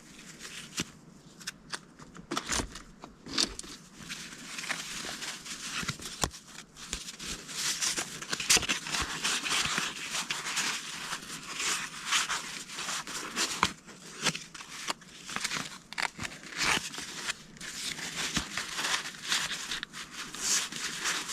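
Stack of paper task cards being leafed through and shuffled by hand: a continuous rustle of paper with many small taps and clicks, busier in the second half.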